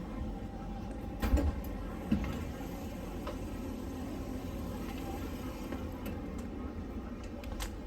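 Steady low rumble of a passenger train, broken by two knocks about a second and two seconds in and a sharp click near the end.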